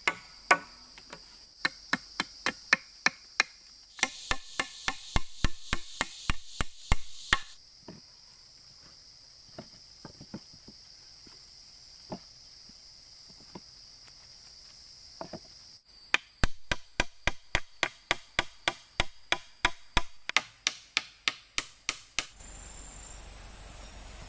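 Repeated chopping strikes into wood with a blade, in quick runs of about three to four blows a second, with a few sparser knocks in the middle stretch. A steady high insect drone runs behind the blows.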